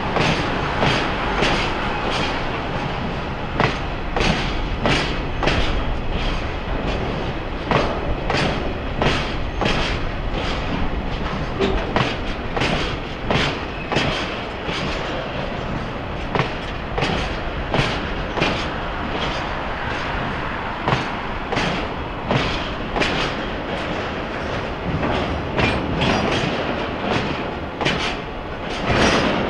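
Railway oil tank wagons rolling slowly past, their wheels clacking over rail joints about one to two times a second over a steady rumble.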